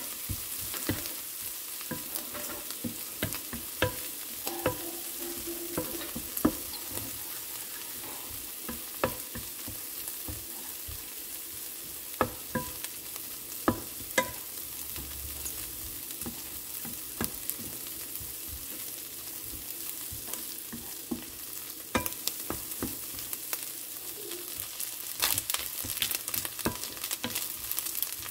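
Dried shrimp frying in oil in a nonstick wok, a steady sizzle, with the clicks and scrapes of a wooden spatula stirring them against the pan, more frequent near the end.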